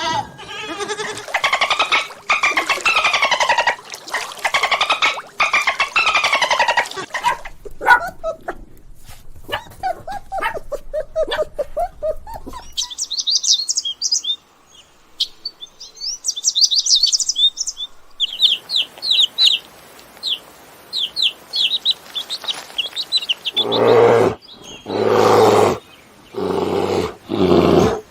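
A run of different animal calls: long wavering calls during the first seven seconds, then small birds chirping in quick high trills for about ten seconds in the middle, then a series of loud short calls near the end.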